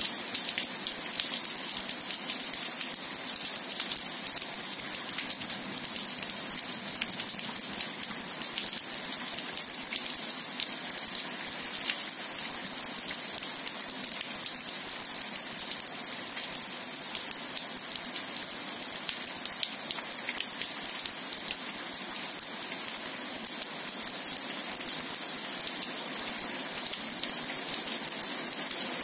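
Heavy rain falling steadily on a wet asphalt road and grass: a dense, even hiss made of countless fine drop impacts.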